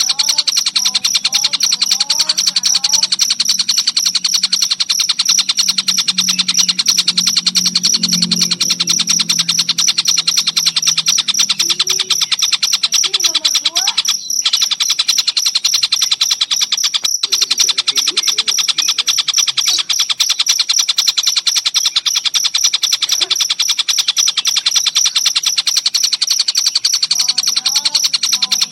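Crickets chirping in a loud, fast, unbroken trill, cutting out for an instant twice midway, with fainter short rising and falling bird calls underneath.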